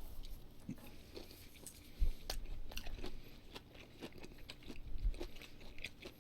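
A person chewing and biting food close to the microphone, with many small wet clicks and crunches. There are two soft low thumps, at about two and five seconds in.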